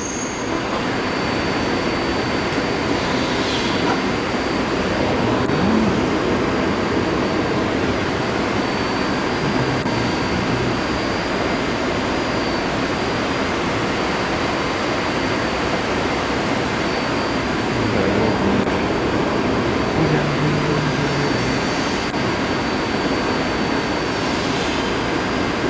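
Taipei Metro C381 train running, a steady rumble of wheels and motors with a thin, constant high whine. The noise builds over the first couple of seconds and then holds steady.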